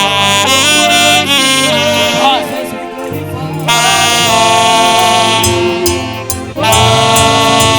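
Live saxophone playing a worship melody over band accompaniment, with held notes, bends and quick runs.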